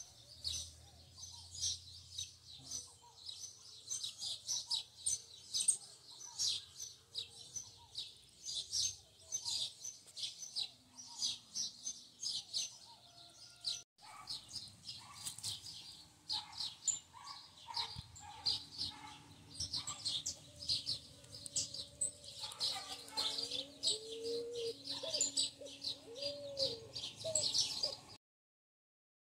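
Small birds chirping continuously, many short high-pitched notes in quick irregular succession, with a brief break about halfway through. A few lower, sliding calls come in near the end.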